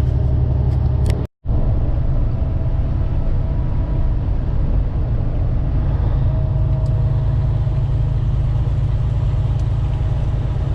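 Steady low drone of a semi-truck's engine and tyre noise heard from inside the cab while driving along the highway. The sound drops out completely for a moment just over a second in.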